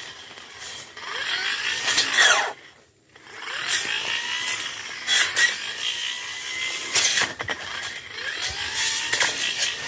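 Tanzu petrol brush cutter revving and cutting through brush, with repeated sharp strikes as the blade hits stems. About three seconds in the throttle is let off and the sound nearly stops, then the engine revs back up.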